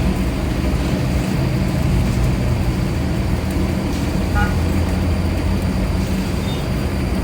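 Steady low engine rumble of a motor vehicle running, with a few faint short high chirps about halfway through.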